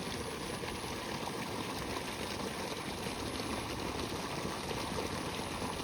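Running water rushing steadily in a stream or channel, an even noise with no breaks.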